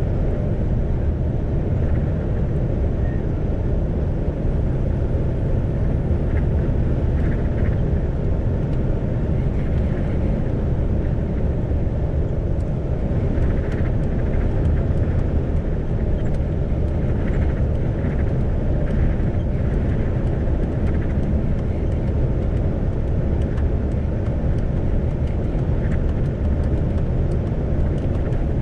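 Isuzu GIGA heavy truck cruising at steady speed on an expressway: a continuous low engine drone with road and tyre noise, without change in pitch or level.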